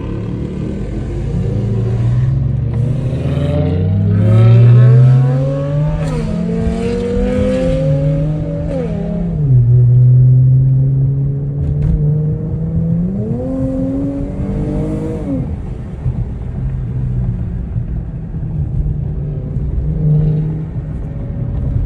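Dodge car engine revved through its exhaust three times, each rev climbing and then dropping back to a steady idle, the last rev ending about two-thirds of the way in.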